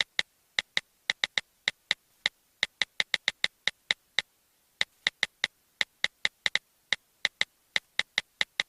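Smartphone on-screen keyboard key clicks as a message is typed: a quick, uneven run of short ticks, with a brief pause a little past four seconds in.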